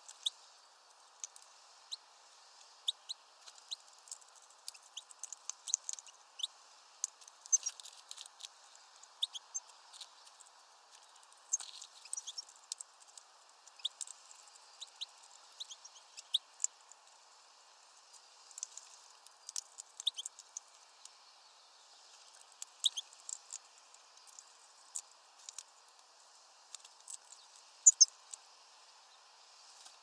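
Small birds chirping: scattered short, high chirps and sharp ticks at an irregular pace, over a faint steady hiss.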